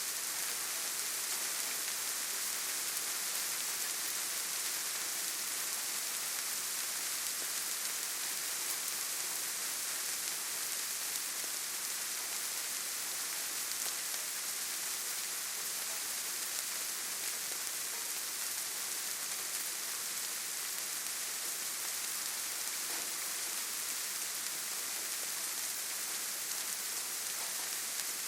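Steady rain falling on leaves and forest ground, a constant hiss with no single drops standing out.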